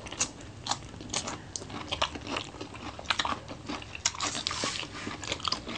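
A crisp cucumber slice bitten and chewed, a string of irregular crunches and chewing clicks that grows denser a little past the middle.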